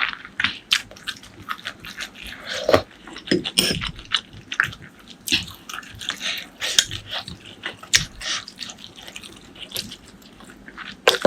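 Close-miked eating: chewing with many irregular wet smacks and clicks of the mouth.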